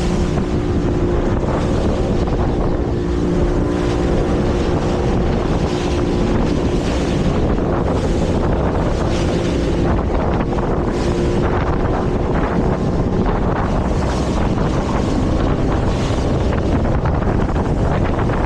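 Motorboat running underway: a steady engine drone mixed with water rushing past the hull, and wind buffeting the microphone.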